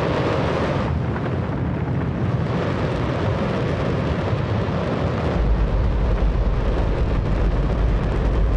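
Hydrogen-oxygen rocket engine test-firing: a steady, extremely loud rush of noise, with a deep rumble that grows stronger about five seconds in.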